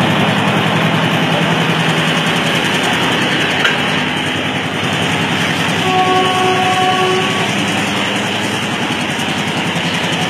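Crowded diesel passenger train rolling past a platform: a steady run of engine and wheel noise. About six seconds in, a train horn sounds once, a held chord lasting about a second and a half.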